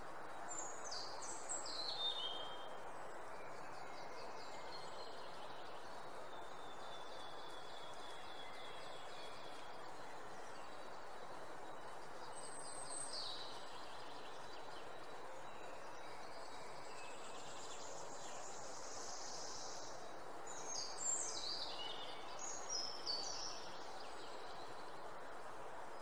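Small birds chirping in short, quick downward-sweeping phrases near the start and again near the end, with a brief high trill midway, over a steady background hiss.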